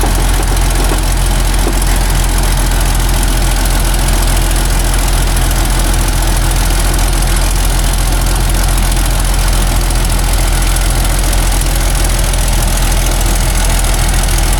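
Heavy logging truck's diesel engine running at a steady, unchanging speed.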